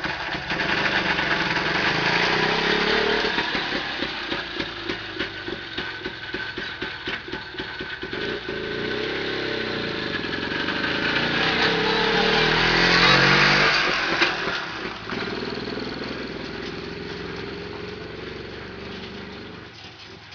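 Homemade walk-behind tractor powered by a single-cylinder two-stroke motor-carriage engine, running and being ridden, its revs rising and falling. The engine grows louder to a peak about two-thirds of the way through, then fades away.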